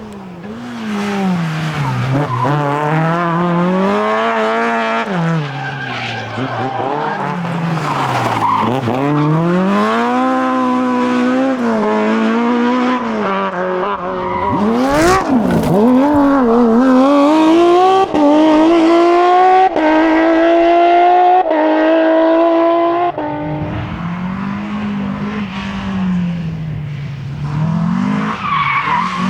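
Rally cars driven flat out, engines revving up and falling back as they brake and accelerate, with a run of quick upshifts in the middle, each gear change cutting the note down before it climbs again. Tyres squeal at times.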